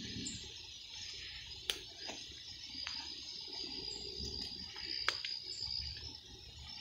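Footsteps pushing through brush and undergrowth, with three sharp snaps of twigs. A steady high-pitched insect trill runs behind, growing stronger partway through.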